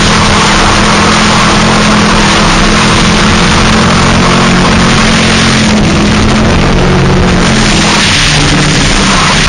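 2000 Ford Mustang drift car's engine held at high revs, its pitch fairly steady, under a loud hiss of noise; the engine note changes and drops about eight seconds in.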